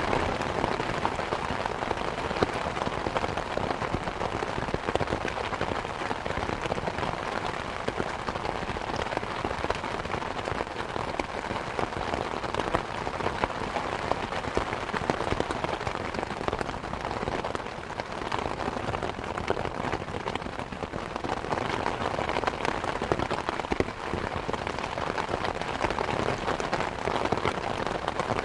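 Steady rain mixed with a crackling wood fire: a dense, even hiss of rain with many small sharp crackles and pops scattered through it.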